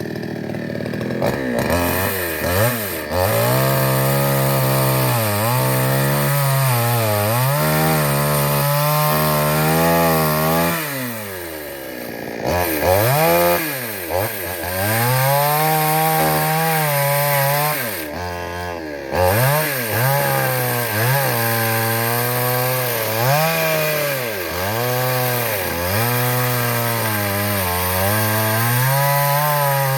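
Chainsaw cutting wood: the engine runs at high revs, and its pitch sags again and again as the chain bites into the wood, then recovers. The throttle eases off briefly about twelve seconds in and again around eighteen seconds.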